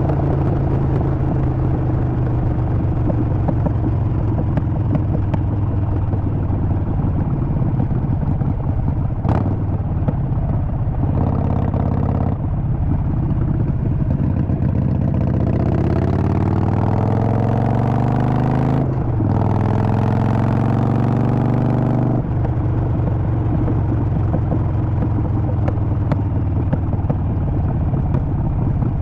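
Harley-Davidson Sportster 48's air-cooled V-twin engine heard while riding: a steady low running note, then about halfway through it revs up, breaks briefly for a gear change, climbs again and drops suddenly back to a steady lower pitch.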